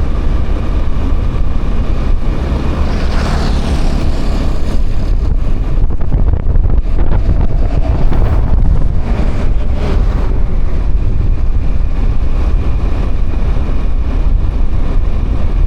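Wind buffeting the microphone over the steady engine and road noise of a moving motorbike.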